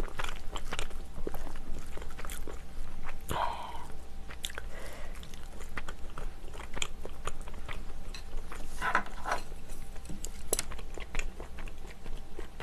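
Close-miked chewing and mouth sounds of someone eating rice and seafood soup, with scattered light clicks of a spoon and chopsticks against bowls.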